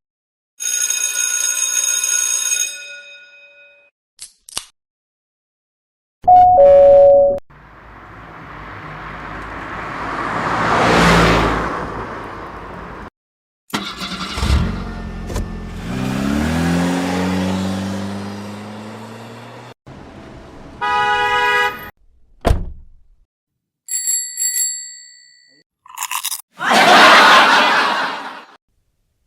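A run of short, unrelated meme sound effects played back to back with brief gaps between them: held ringing tones, a swell of noise that builds and cuts off, a stretch of rising pitched tones, bell-like chimes, and a loud noisy burst near the end.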